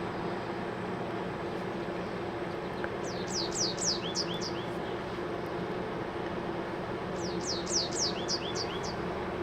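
A songbird singing two short phrases a few seconds apart, each a quick run of high notes sweeping downward, over a steady low background hum.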